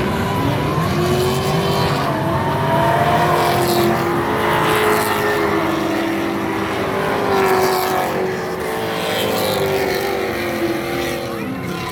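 Drift cars' engines revving hard with tyres squealing as they slide past; the engine pitch rises and falls several times.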